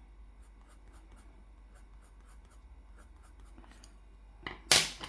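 Faint scratching of a drawing or colouring tool on paper, a run of small strokes. There is one short, loud burst of noise near the end.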